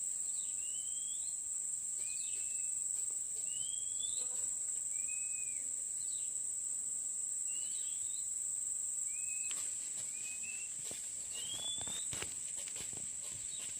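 Steady high-pitched drone of insects such as crickets, with a bird repeating short whistled notes about once a second, some rising and some arched. A scatter of faint clicks and knocks comes in during the last few seconds.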